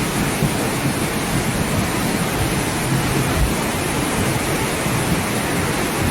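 Steady, even rushing of water, as of heavy rain or fast floodwater.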